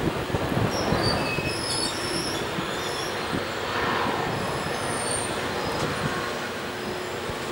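Heavily loaded coal hopper wagons rolling past on a curve: a steady rumble and clatter of wheels on rail, with short high-pitched squeals from the wheels on the curve, mostly in the first half.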